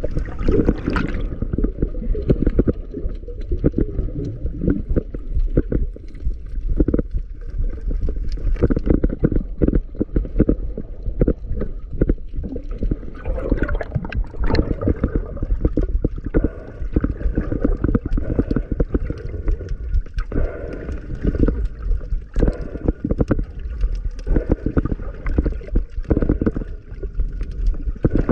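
Muffled seawater sloshing and gurgling against an underwater camera, with many small knocks and clicks throughout.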